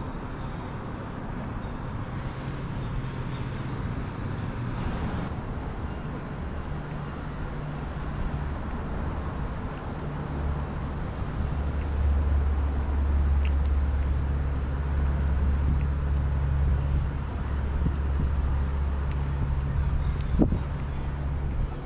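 Low, steady engine rumble of passing motor traffic over a wash of wind and water noise, growing louder about halfway through, with one short sharp knock near the end.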